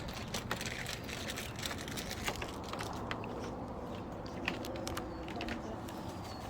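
Scattered light clicks and taps at an irregular pace over a steady background hiss.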